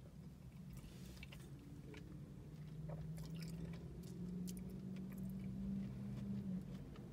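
A person chewing a mouthful of chicken salad: faint wet chewing with small mouth clicks. A low drawn-out hum starts about halfway through and stops shortly before the end.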